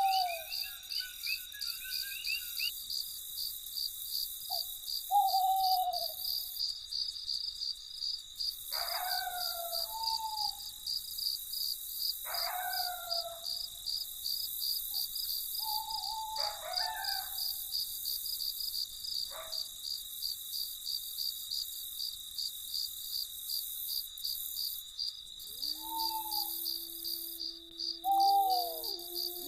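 Crickets chirping in a steady, high, fast-pulsing trill. Over them come short, downward-bending calls from an animal, repeating every few seconds. Near the end a low, sustained, bell-like tone fades in.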